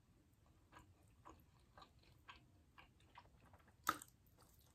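Faint, close-miked chewing of a sauced fried chicken wing: soft mouth clicks every half second or so, with one sharper bite about four seconds in.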